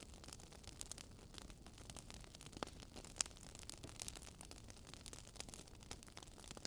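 Wood fire crackling faintly, with irregular small pops over a low hiss and one sharper pop a little after three seconds in.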